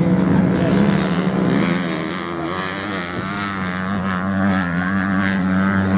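Several racing motorcycle engines running at once, a steady engine sound whose pitches waver up and down as the bikes ride the sand course, dipping slightly in loudness midway.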